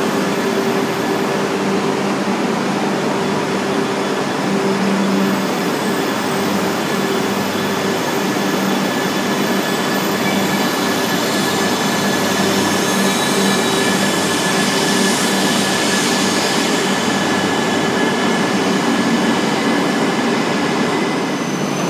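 Shinkansen trains moving slowly along the platform: a steady rumble of wheels on rail under a low, even motor hum, with a hiss that grows brighter about two-thirds of the way through.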